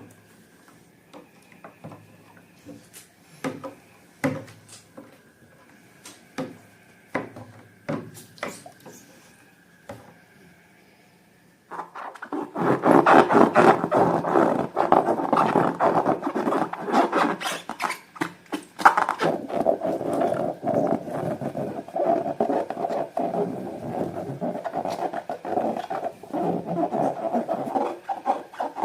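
Sticky slime and balloon handling sounds. At first these are scattered short clicks and squelches. About twelve seconds in they turn into a dense, continuous crackling rasp, steadier in pitch during the second half.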